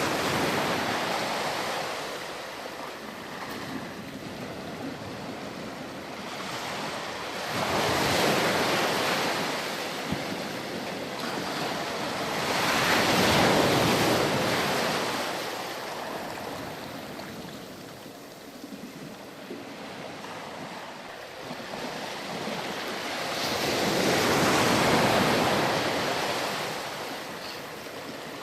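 Ocean surf on a beach: waves breaking and washing in and out, a steady rush of water that swells and fades in four slow surges, the strongest about halfway through and near the end.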